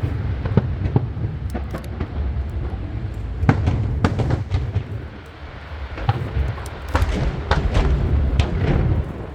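Aerial fireworks bursting in a rapid series of booms and sharp cracks over a continuous low rumble. They ease off briefly about halfway through, then pick up again.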